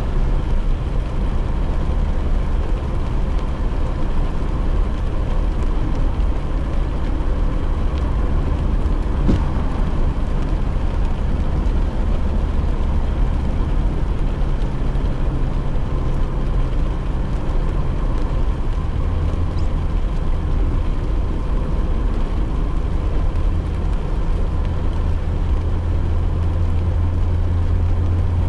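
Steady drone of a car driving, heard from inside the cabin: a low engine and tyre rumble on a wet road with rain on the car. The low hum steps up a little in pitch about two-thirds of the way through.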